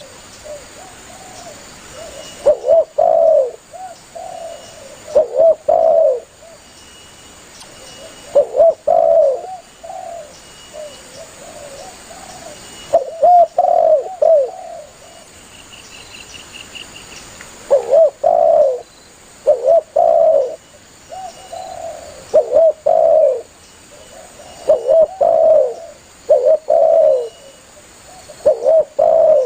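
Spotted dove (tekukur) cooing: repeated phrases of two or three low coos, one every few seconds.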